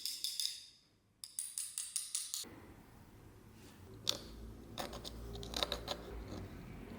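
A rapid run of sharp, ringing clicks, broken by a short pause about a second in, that stops suddenly. A low hum with a few light clinks follows.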